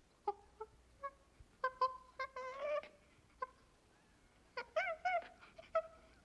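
A small animal making short, high, squeaky calls, repeated irregularly in little clusters.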